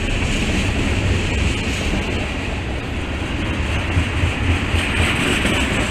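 Two freight trains rolling past close by at once, in opposite directions: a steady rumble and rush of passing cars with no horn.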